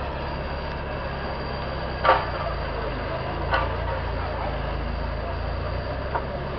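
Off-road 4x4 vehicle's engine running steadily at low revs, with three sharp knocks: the loudest about two seconds in, another a second and a half later, and a lighter one near the end.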